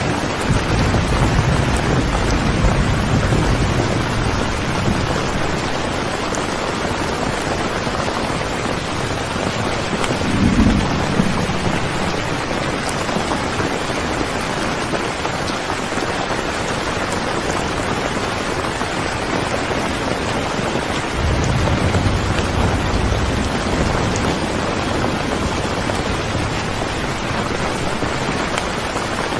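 Steady heavy rain, with low rolls of thunder: one at the start, a short one about ten seconds in, and another a little past twenty seconds.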